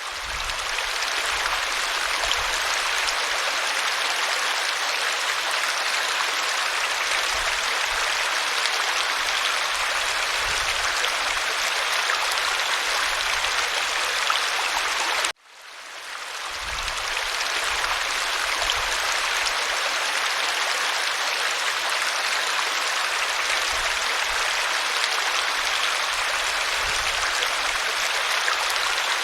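Waterfall: a steady, even rush of falling water. About fifteen seconds in it cuts out abruptly and fades back in over a second or two.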